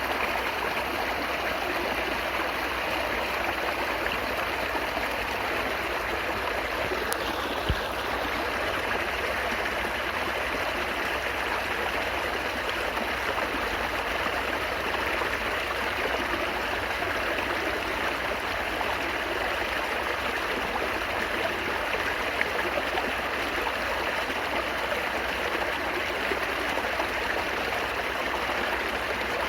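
Water babbling steadily in a stream, an even flowing rush without pause; a single faint click sounds about eight seconds in.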